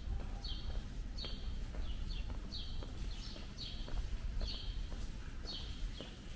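A small bird chirping over and over, short high chirps about two a second, with the walker's footsteps on cobblestones.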